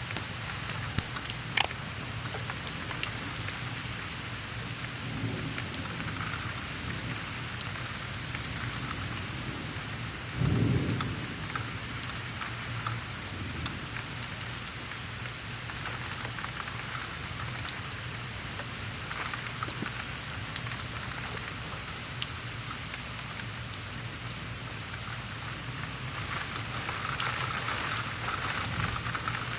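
Steady rain falling, with individual drops ticking sharply now and then, and a short low rumble of thunder about ten seconds in.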